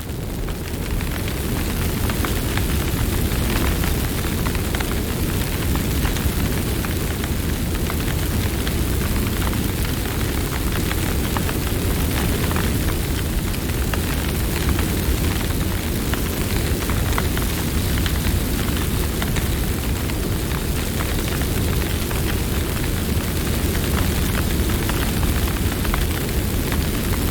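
Campfire burning, with frequent small crackles and pops over a steady low rumble of flames.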